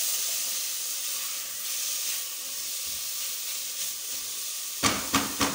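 Chopped onions and tomatoes sizzling in ghee in an aluminium pot with a steady hiss while being stirred with a spatula. Near the end, a quick run of four or five sharp knocks, the spatula striking the pot.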